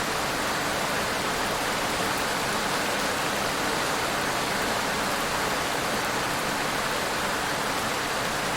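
Steady, even rain with no distinct drops standing out.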